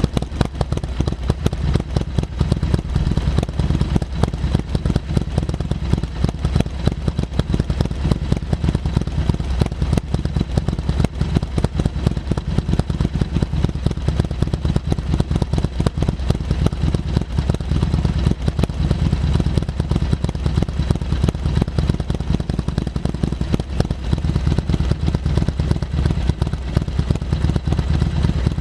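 Harley-Davidson Sportster XL1200CX's air-cooled 1200 cc V-twin idling steadily through its exhaust, with a low, uneven pulsing beat.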